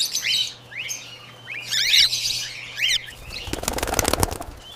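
Cockatiels chirping in short rising and falling calls, then a burst of rapid wing flapping about three and a half seconds in, lasting a little over a second.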